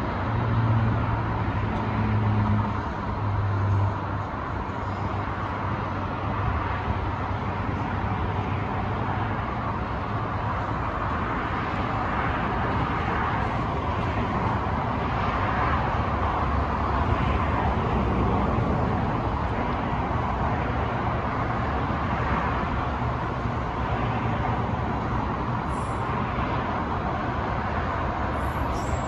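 Container freight train running through the station, a steady rumble of wagons on the track. A low hum is strongest in the first few seconds.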